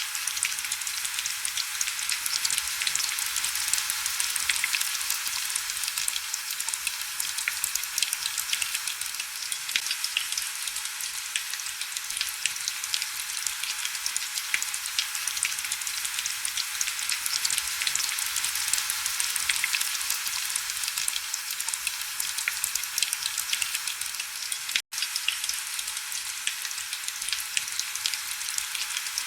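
Heavy rain: a steady, hissing wash of countless fine drop ticks, bright and thin with almost no low rumble. It cuts out for an instant near the end.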